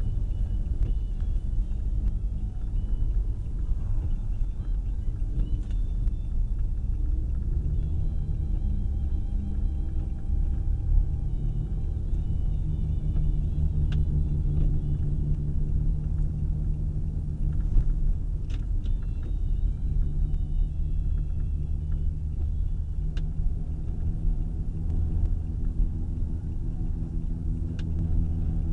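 Car running and rolling slowly: a steady low engine and road rumble, with an engine hum that grows stronger a few seconds in and a few faint clicks.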